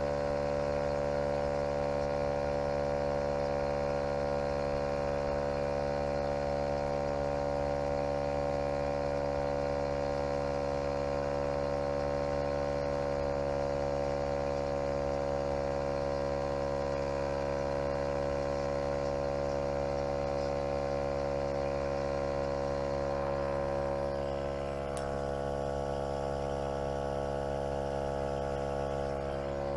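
Topline portable 12-volt tyre inflator running, its small electric motor and piston pump giving a steady, even hum while it pumps up a flat car tyre.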